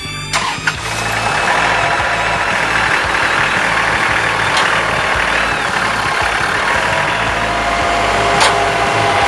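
Kubota tractor engine running steadily, with a couple of sharp clicks in the first second and another sharp click near the end.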